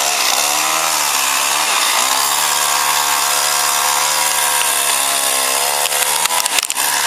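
Two-stroke chainsaw running hard, its engine pitch sagging briefly at the start and again about two seconds in, then holding steady, with a few sharp clicks near the end.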